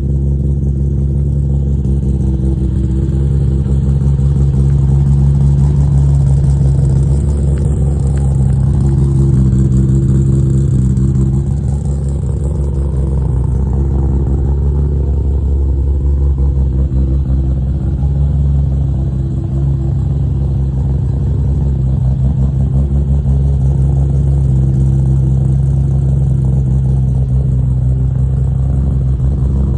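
Toyota 2JZ straight-six engine swapped into a Subaru WRX STI, running steadily with low, continuous engine tones that swell slightly now and then.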